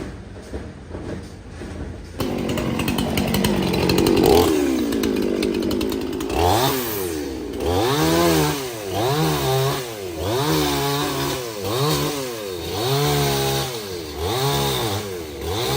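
Chainsaw engine running. It gets louder about two seconds in, then revs up and falls back again and again, about once a second.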